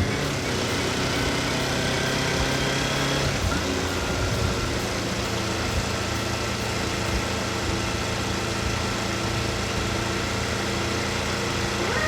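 Kawasaki Eliminator 250SE's parallel-twin engine running steadily, its note changing slightly about three seconds in.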